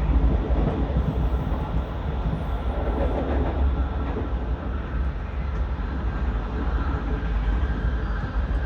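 A moving vehicle running with a steady low rumble and road noise.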